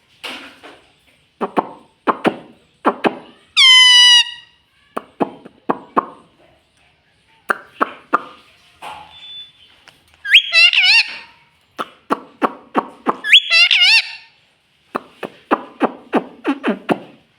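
Indian ringneck parakeet making rapid clicking and chattering mouth sounds, broken by three high, pitch-bending squawky calls, about 4 s, 10 s and 13 s in.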